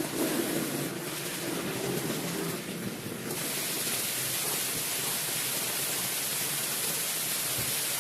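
Steady hiss of a water jet spraying onto a wet rug. The hiss gets fuller and brighter about three seconds in.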